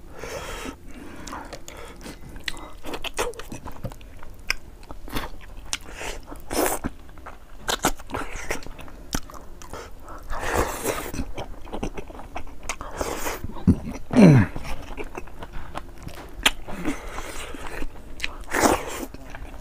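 Close-up mouth sounds of eating boiled fish head and rice by hand: wet chewing and biting with many small clicks, broken by several louder noisy smacks, and a short falling vocal sound about fourteen seconds in.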